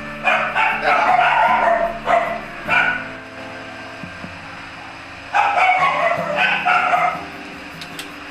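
A dog barking and yipping in two quick runs of short barks, the first lasting about three seconds and the second, a couple of seconds later, about two, over steady background music.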